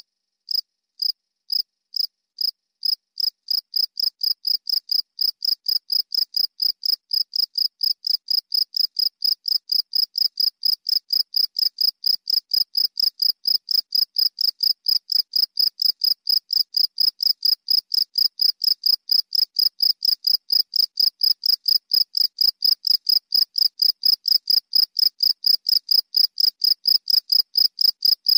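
Cricket (jangkrik) chirping: short, sharp, high chirps that start slowly, about two a second, and within a few seconds quicken into a steady run of three to four a second.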